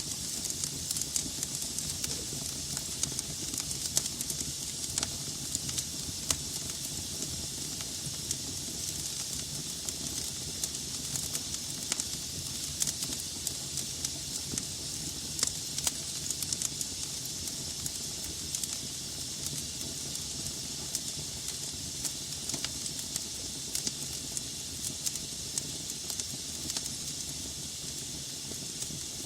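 Wood logs burning in a fireplace: a steady hiss and low rumble of flames with frequent irregular crackles and pops throughout.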